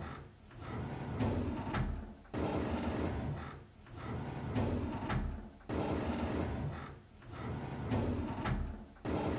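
A drawer being slid open again and again, about three times, each time a rumbling slide with a sudden knock about every three seconds.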